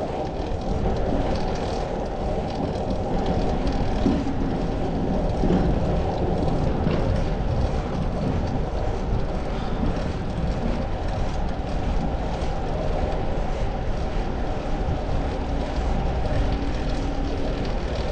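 Steady low rumble of road and wind noise from a moving fixed-gear bicycle, with a few faint passing tones.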